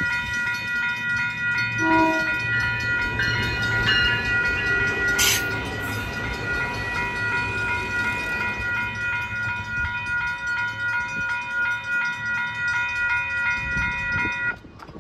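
Sonoma-Marin Area Rail Transit diesel multiple-unit train passing through a station, with steady ringing at several high pitches over the train noise. A short, lower tone sounds about two seconds in, and the ringing cuts off suddenly near the end.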